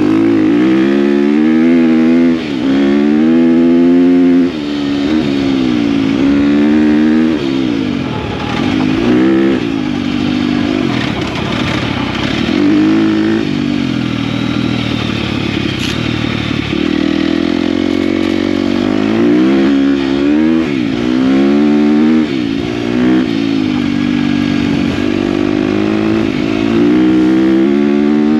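KTM dirt bike engine being ridden: the revs climb and fall back again and again as the throttle opens and closes and the gears change, with short drops between pulls.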